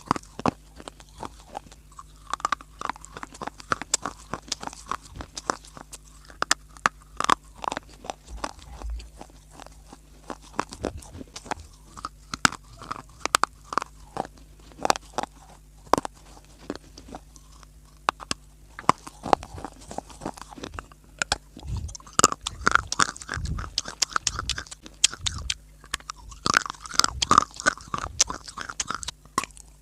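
A person biting and chewing crunchy dry clay (mitti) close to the microphone: a steady run of sharp crunches and cracks that comes thicker and louder in the last third.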